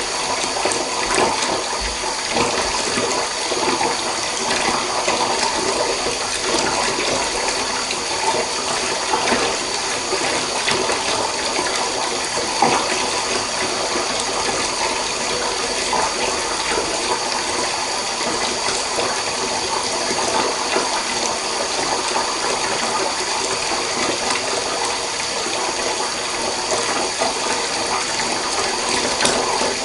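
Water running steadily from a tap into a bathtub, an even, unbroken rush.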